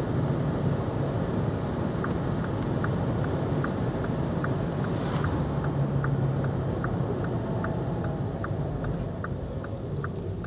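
A car's turn-signal indicator ticking steadily, about two and a half ticks a second, starting about two seconds in, over tyre and road noise inside the cabin of a VW e-Up electric car; the road noise eases off a little near the end.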